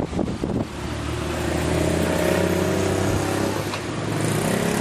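A motor vehicle's engine passing close by on the road, its sound building over the first couple of seconds and holding steady.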